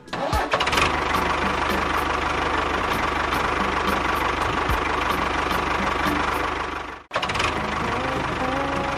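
The small motor of a miniature DIY tractor or bulldozer model running steadily, with a fast, even knocking rhythm. It cuts out abruptly about seven seconds in and starts again straight away.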